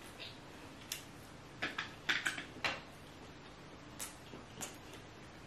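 Close-miked mouth sounds of chewing a spoonful of rice: a run of short wet clicks and smacks, bunched together about two seconds in, with a few single ones later.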